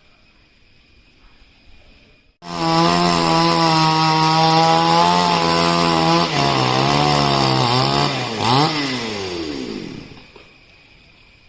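Two-stroke chainsaw starting suddenly at high revs and holding steady. It then drops in pitch and wavers, revs up and down once more, and slows and fades away.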